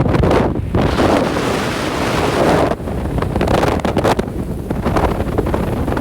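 Loud wind buffeting a microphone held out of a moving vehicle's window, a rough rushing noise that surges and eases in gusts, with a short lull about three seconds in.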